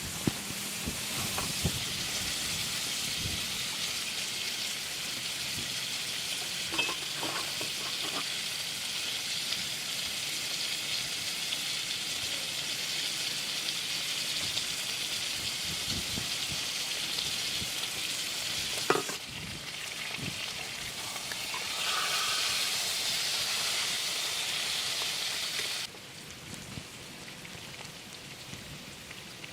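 Steady hiss of heavy rain falling, with a few scattered drip taps and a sharp tap about two-thirds of the way through. The hiss drops and rises abruptly a couple of times, then falls to a quieter level near the end.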